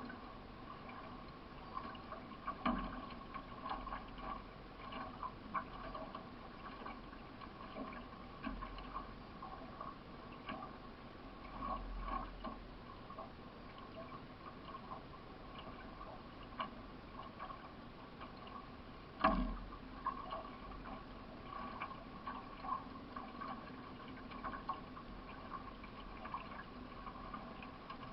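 Paddle strokes and water along the hull of a solo racing canoe, heard from onboard, under a steady faint hum. There are small knocks about once a second, and a louder knock about nineteen seconds in.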